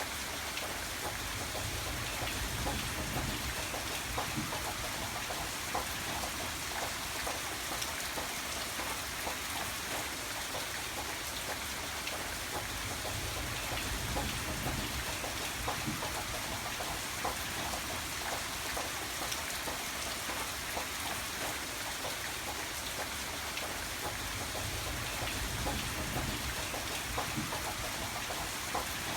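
Steady rain falling, with many separate drops ticking on a surface. Underneath, a low rumble swells and fades a few times.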